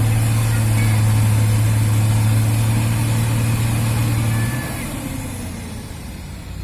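Heavy truck's diesel engine running with a loud, steady drone that cuts off about four and a half seconds in, leaving a quieter engine sound that gradually fades.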